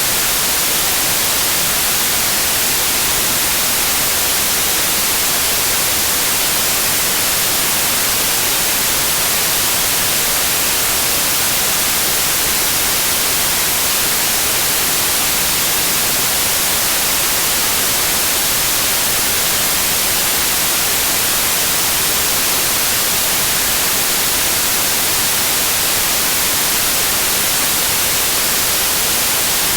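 Synthetic white noise: a steady, even hiss, brightest in the high frequencies, with no changes or events.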